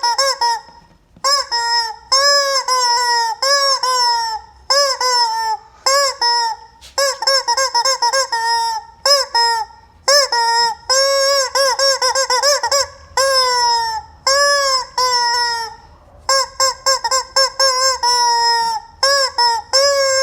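Rubber chicken squeeze toy squawking over and over: a fast string of short squawks mixed with a few longer, drawn-out ones, each bending up and down in pitch.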